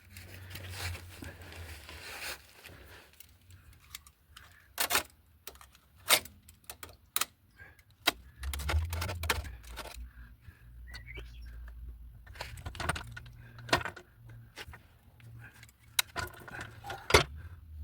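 Scattered sharp metallic clinks and knocks of tools and metal parts being handled, with a low hum coming and going.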